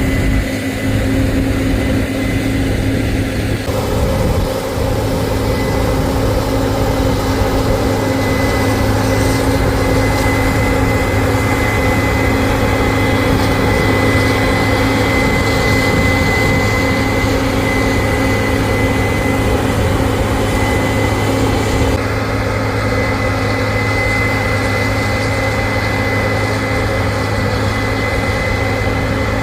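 Combine harvester running steadily, a heavy engine hum with a steady high whine over it. The sound shifts abruptly about four seconds in and again near the end.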